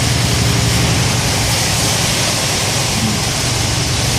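Steady road noise inside a moving car on a wet highway: a low engine hum under the even hiss of tyres on rain-soaked pavement.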